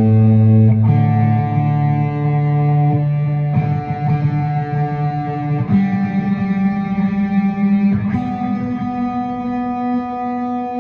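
Electric guitar strings plucked one at a time and left to ring while being tuned, a new string every two to three seconds, each a step higher than the last.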